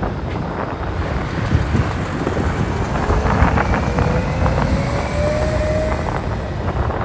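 Wind buffeting the microphone over the low rumble of heavy trucks driving off a car ferry. A faint whine rises slowly in pitch from about three seconds in to about six seconds as one of them accelerates.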